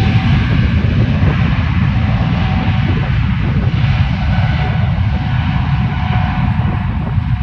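Jet airliner's engines running as the plane passes: a steady rushing noise with faint steady whining tones, easing slightly near the end. Heavy low rumble from wind buffeting the microphone runs underneath.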